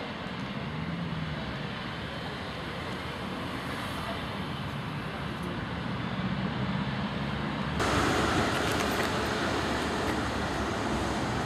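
Steady rumble of passenger coaches rolling away along the track. About eight seconds in, a cut brings a sudden, louder steady rush of a train coming through at speed: LNER A4 Pacific 60019 'Bittern' on a non-stop run.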